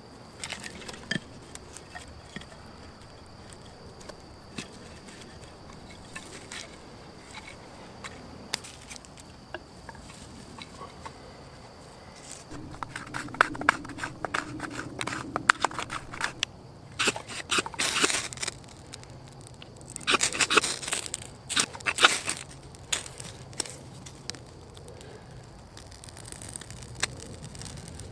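Scattered snapping and crackling of sticks and leaf litter being handled while a campfire is built. Several louder bursts of crunching and scraping come in the second half.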